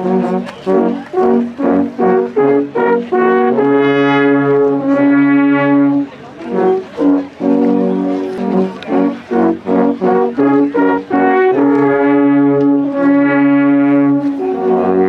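Brass band playing a tune in harmony: runs of short, separate notes broken twice by longer held chords.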